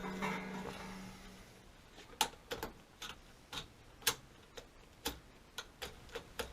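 A short low hum in the first second and a half, then a series of sharp, irregular clicks, about two a second.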